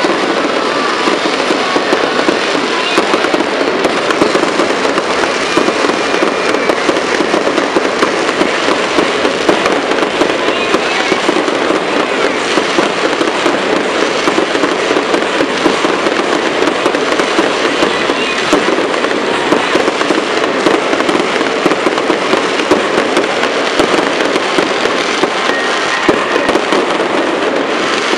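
Fireworks display: fountains spraying sparks from the ground and shells bursting overhead, a dense, steady crackle of many small pops that goes on without a break.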